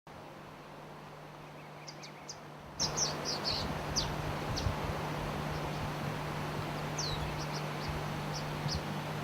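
Steady rushing of a waterfall, which gets louder about three seconds in, with short high bird chirps scattered over it and a faint steady low hum underneath.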